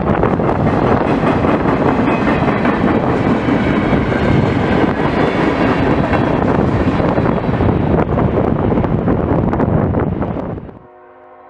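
Freight cars of a CSX manifest train rolling past close by, a loud steady rumble with many sharp clicks of wheels on the rails. It cuts off suddenly about a second before the end.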